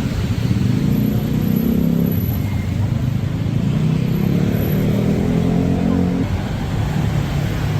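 Street traffic: a vehicle engine running close by, its pitch drifting slightly upward partway through, over a steady city street hum.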